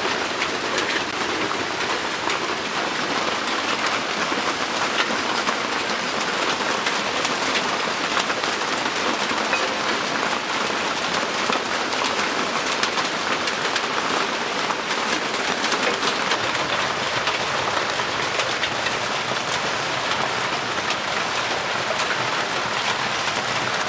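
Heavy rain falling steadily on a roof, a dense unbroken patter of many small drop impacts.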